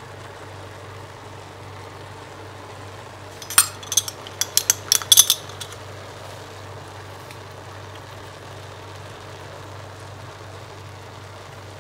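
Kitchen utensils clinking: a quick run of about ten sharp metal-and-glass clinks about three and a half seconds in, lasting around two seconds, over a steady low hum.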